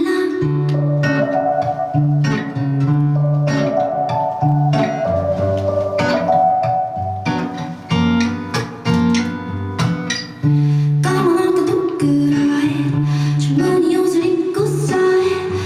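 Live rock band playing an instrumental passage with guitar to the fore, over a repeating bass line and regular drum hits.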